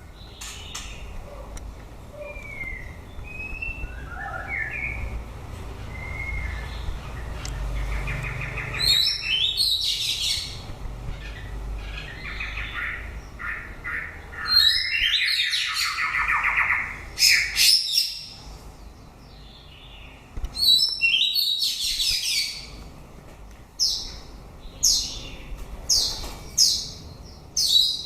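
White-rumped shama singing: a few soft whistled notes at first, then loud bouts of song from about nine seconds in, mixing clear whistles with scratchy notes, in short phrases that come thick and fast toward the end.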